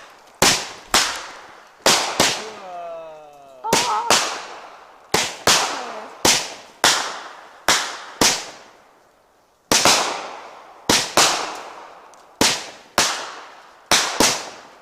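Ground-launched multi-shot consumer firework firing a string of loud shot bangs, irregularly about two a second and often in quick pairs. Each report trails off in a hissing tail.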